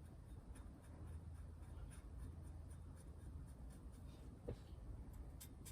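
Faint handling of a paper template: light scratching and small scattered ticks, with one sharper tick about four and a half seconds in, over a low room hum.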